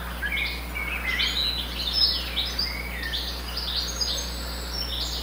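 Several birds chirping and singing, many short high-pitched calls overlapping one another without a break.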